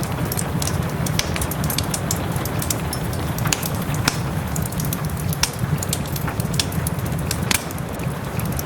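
Wood fire in a fireplace crackling, with irregular sharp pops over a steady hiss and low rumble of rain.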